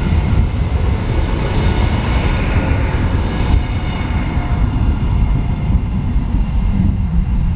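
A train passing on a mainline: a loud, steady low rumble, with a high whine that fades out about halfway through.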